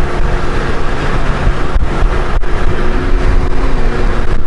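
Steady wind rush and engine drone from a Honda Gold Wing motorcycle riding at motorway speed, picked up by the rider's microphone.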